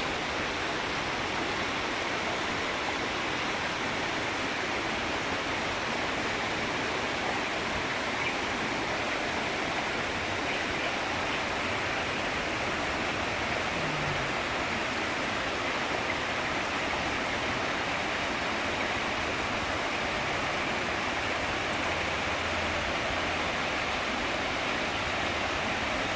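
Steady rushing of water from a waterfall stream, an even unbroken hiss.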